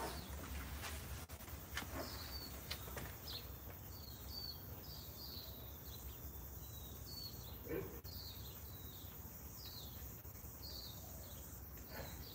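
A small bird chirping over and over: short, high, falling chirps about twice a second, over a low steady hum. A few faint clicks in the first few seconds.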